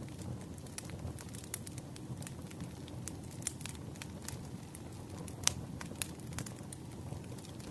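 Campfire burning with a steady low rumble and irregular sharp crackles and pops of burning wood, two louder pops near the end.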